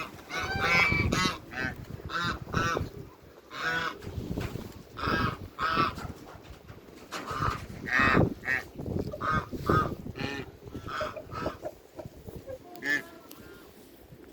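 Domestic ducks and geese calling: a busy, irregular run of short honks and quacks, one or two a second, some overlapping, a little quieter in the second half.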